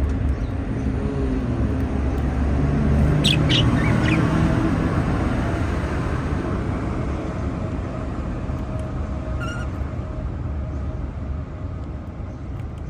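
Pet budgerigars giving a few short, high chirps: a quick cluster about three seconds in and another faint one near ten seconds. Under them runs a steady low rumbling noise that eases slightly toward the end.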